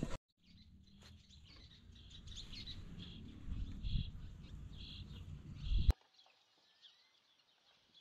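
Small birds chirping again and again over a low rumble of wind on the microphone; it cuts off abruptly about six seconds in, leaving near silence.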